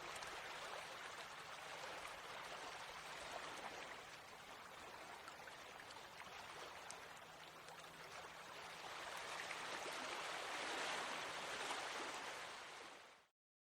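Small stream flowing steadily, water burbling and splashing over stones, swelling a little louder for a few seconds before fading out quickly near the end.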